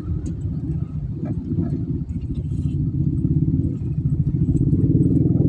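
A motor vehicle engine running with a low, rapidly pulsing rumble that grows louder in the second half.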